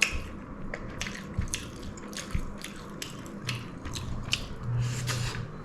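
Eating sounds close to the microphone: a string of irregular sharp clicks from chewing and lip smacks as a mouthful of pulao is eaten.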